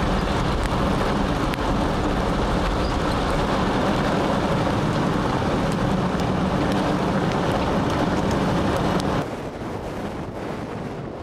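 Steady rushing noise of wind on the microphone and a moving vehicle, with a low hum underneath. It drops suddenly to a quieter rush about nine seconds in.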